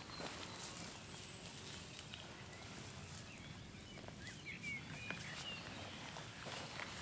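Faint garden ambience: a few short bird chirps around the middle, with scattered light clicks and rustling from work among the plants.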